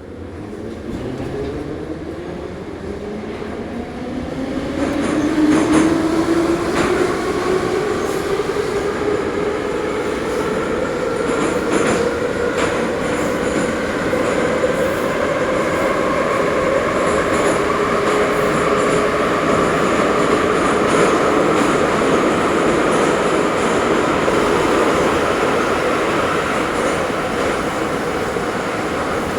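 Ezh3 (Еж3) metro train accelerating: its traction motor and gear whine rises in pitch over the first ten seconds or so, then holds steady as the train runs at speed. A few sharp clicks from the wheels on the rails come under a constant rumble.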